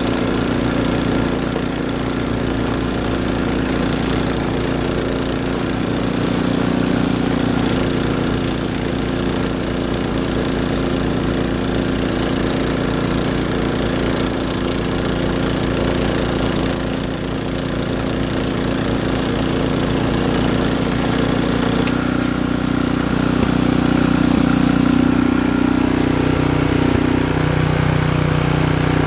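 Snowblower engine running steadily while clearing snow; its note shifts and gets slightly louder about three-quarters of the way through.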